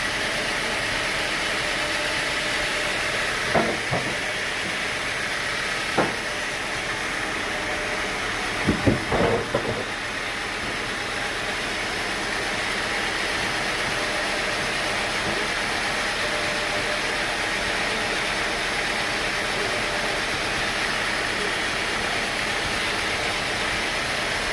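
Sawmill machinery running steadily with a constant hissing drone, broken by a few sharp knocks: one about three and a half seconds in, one at six seconds, and a short cluster near nine seconds.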